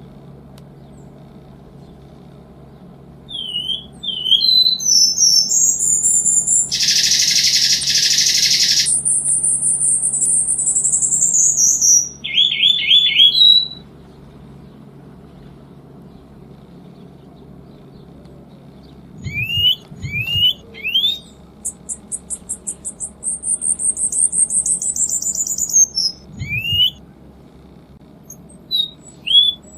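Cuban bullfinch singing: high, thin phrases of short rising notes and fast trills that fall in pitch, in two bouts with a pause of about five seconds between them. A harsh rasp cuts in for about two seconds during the first bout.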